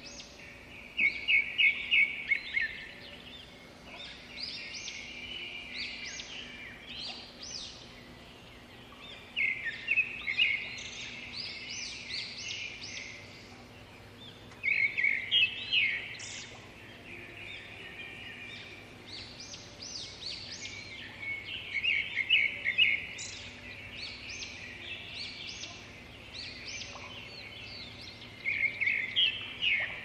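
Birds singing and chirping: several loud bursts of quick repeated high notes a few seconds apart, with softer chirps between them.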